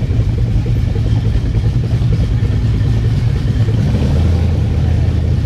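Car engines rumbling in slow, crawling traffic: a deep, steady drone, with a lower engine note coming in about four seconds in.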